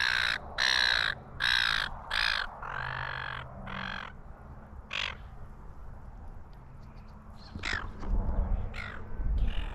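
Birds giving harsh, cawing calls, a quick run of them about one and a half a second for the first few seconds, then single calls spaced further apart. Wind rumbles on the microphone near the end.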